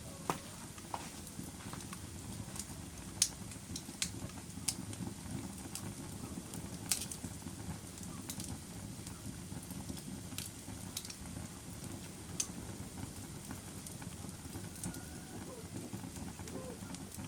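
Wood fire burning in a fireplace: a steady low rumble of the flames with irregular sharp crackles and pops, the loudest pop about three seconds in.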